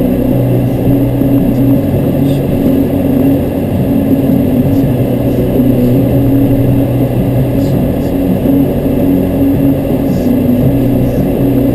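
A steady engine-like drone holding one low pitch, without changes in speed.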